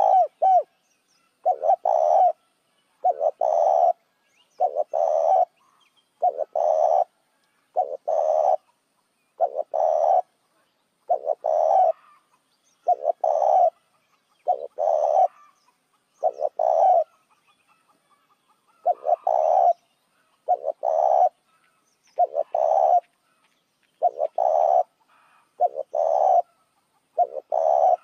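Spotted dove cooing over and over, one short low coo phrase about every two seconds, with a longer pause about two-thirds of the way through. It is a lure call, played to draw doves in.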